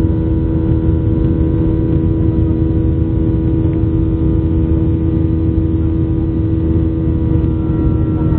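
Boeing 737-800's CFM56-7B jet engines running steadily, heard from inside the passenger cabin: a constant hum of several held tones over a low rumble.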